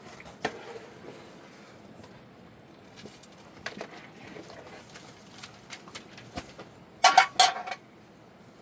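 Scattered light knocks and clinks, then a louder clatter of several quick clanks about seven seconds in.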